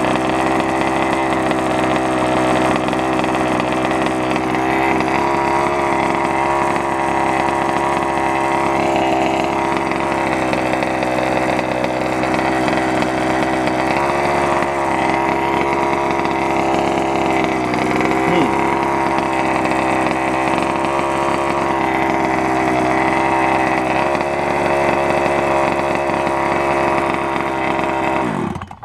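Small two-stroke gasoline engine of a large-scale FG stadium truck running at a steady speed, then stopping abruptly near the end.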